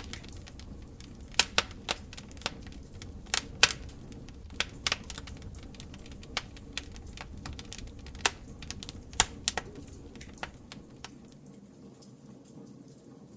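Open fire crackling: irregular sharp pops and snaps over a low steady rumble. The rumble drops away near the end.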